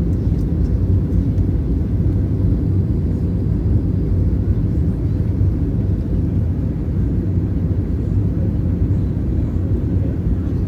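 Steady low rumble of engine and airflow noise heard inside an airliner's cabin.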